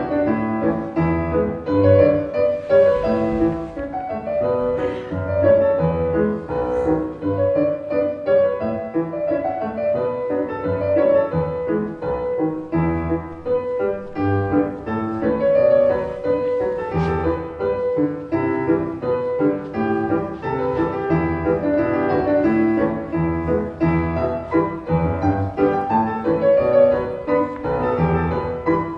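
Piano music playing steadily, with melody and bass notes moving throughout.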